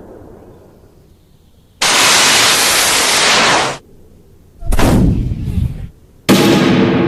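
A string of separate sound effects: a two-second burst of hiss that starts and stops abruptly, then a short low blast, then a sharp hit that rings on with several tones.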